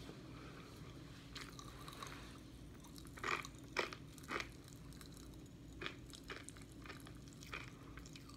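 Faint chewing and crunching of popping candy like Pop Rocks in a mouth, with scattered small clicks and a few sharper crunches between about three and four and a half seconds in.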